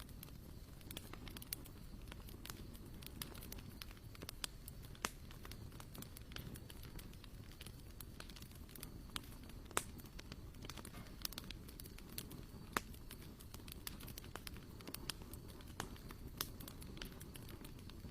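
Wood fire crackling: irregular sharp pops and snaps over a low steady rumble, with a few louder pops about 5, 10 and 13 seconds in.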